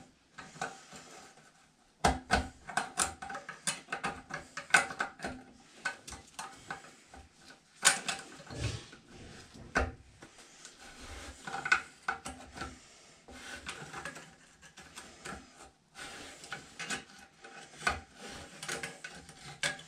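Metal parts of an old toilet fitting being worked loose and unscrewed by hand: irregular clicks, knocks and scraping of metal on metal, with a short pause about a second in and another near the end.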